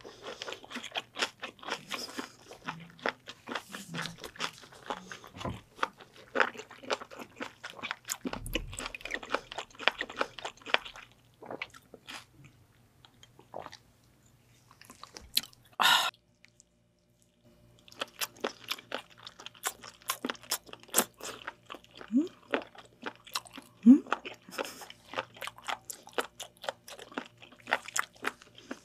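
Close-miked chewing of raw spoon worm (gaebul), with quick, crisp, wet crunching clicks. About halfway through the chewing stops and there is one short loud burst. It starts again a couple of seconds later.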